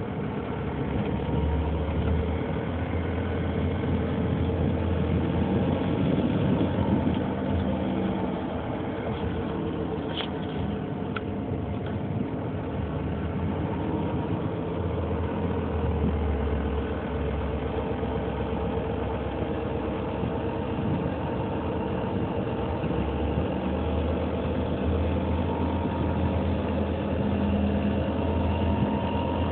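2003 Nissan Murano's 3.5-litre V6 engine idling steadily, with the clicking, tapping noise that the owner finds strange.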